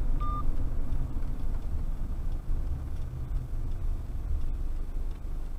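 Low, steady engine and road rumble inside a ute's cabin, with a short electronic beep near the start; the rumble grows quieter near the end.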